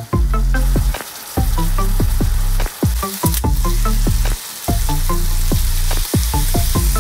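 Marinated pork belly slices sizzling and frying in a pan, under background music with a plucked melody and a heavy bass that cuts out briefly several times.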